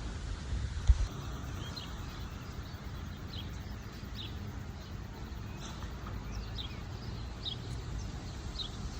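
Birds chirping: scattered short high calls over a steady low rumble, with a single sharp thump about a second in.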